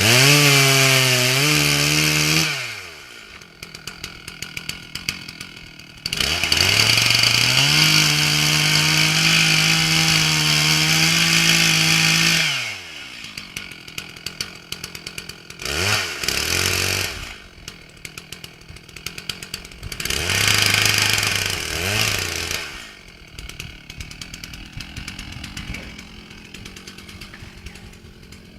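Chainsaw revved to full throttle in several bursts, a couple of seconds, then about six seconds, then two short ones, dropping back to a fast-ticking idle in between.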